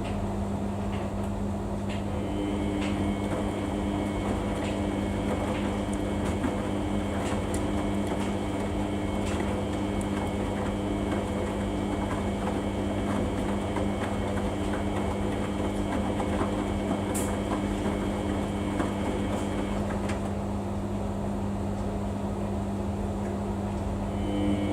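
Samsung washing machine running: a steady hum with a higher whine over it that cuts out about 20 seconds in and starts again near the end, with a few faint clicks and rattles.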